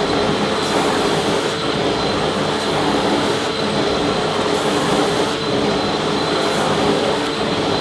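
Vacuum cleaner running steadily, a loud even rush of air with a constant motor whine.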